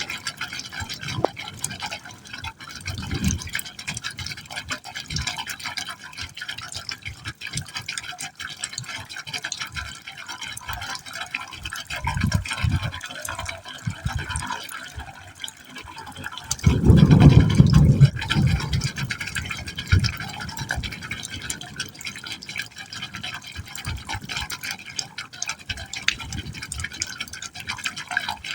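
Water falling steadily into a hole in a pipe: a continuous splashing hiss with irregular deeper gurgles, one louder gurgle swelling for about two seconds a little past the middle.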